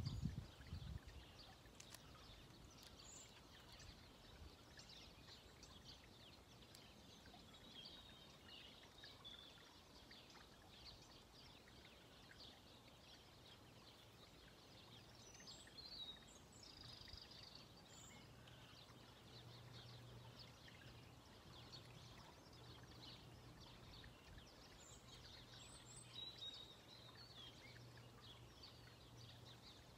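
Near silence, with faint scattered bird chirps and calls throughout. A faint steady low hum sets in from about halfway, and there is a brief low rumble at the very start.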